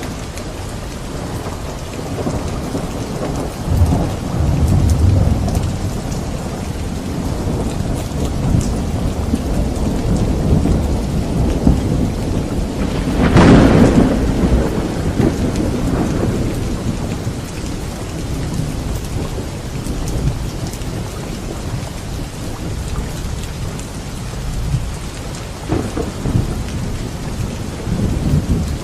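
Thunderstorm: steady heavy rain with rolling thunder. A low rumble swells a few seconds in, the loudest thunder crack comes about halfway through, and a smaller clap follows near the end.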